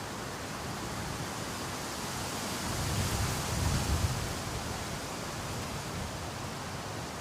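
Heavy rain and rushing floodwater: a steady hiss, with a low rumble that swells between about three and four seconds in.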